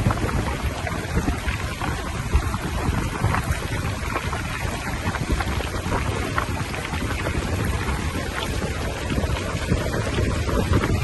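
Steady rush of rain-fed water with dense spattering crackle, under heavy rumbling wind buffeting the microphone.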